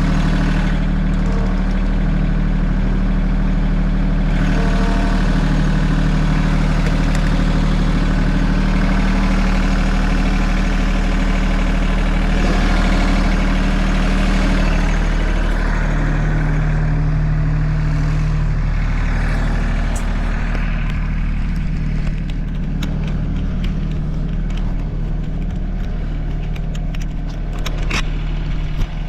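A large engine idling steadily, with a few sharp clicks in the last several seconds.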